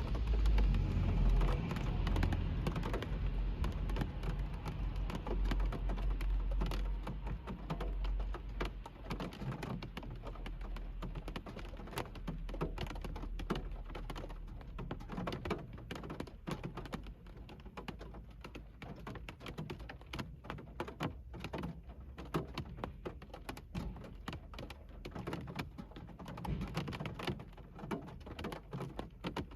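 Rain falling on a car's roof and windshield, heard from inside the cabin: a dense patter of drops at first, thinning to more separate taps of individual drops later.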